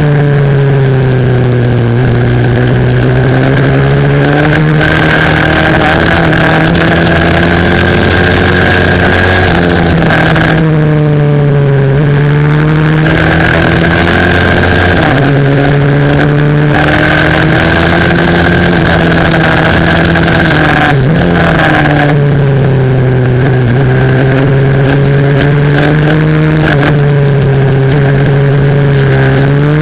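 A 140cc single-cylinder four-stroke pit bike engine heard onboard at race pace. It runs loud and high, its pitch dropping several times as the throttle is rolled off for corners and climbing back as it accelerates out.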